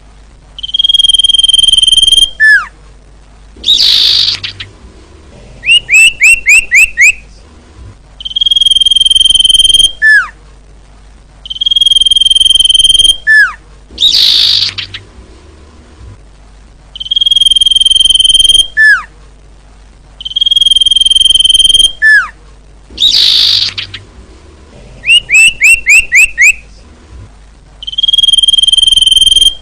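Female common iora (cipoh/sirtu) calling, a recording used to lure males: long steady whistles each ending in a sharp falling note, twice broken by a harsh buzzy note and followed by a quick run of five short down-slurred notes. The sequence repeats several times, loud.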